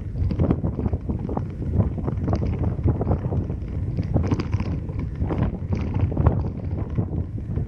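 Car driving, with wind buffeting the microphone over a low road rumble and frequent irregular knocks.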